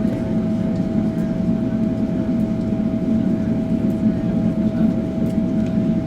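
Steady cabin noise inside a Boeing 777-300ER on the ground after landing: an even low rumble from its General Electric GE90 engines at idle and the cabin air, with a constant hum tone over it.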